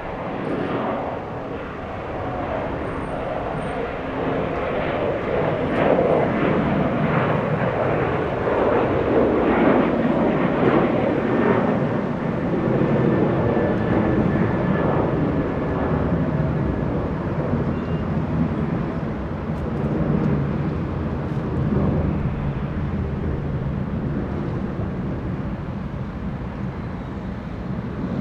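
Jet airliner's engines passing close by: a rushing roar that builds over the first few seconds, peaks about a third of the way in, then slowly fades away.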